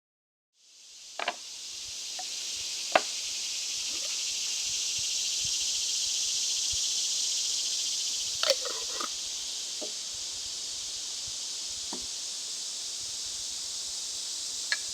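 A steady, high-pitched insect chorus that fades in about half a second in and holds throughout, with a few sharp clicks and knocks over it, the loudest about three seconds in.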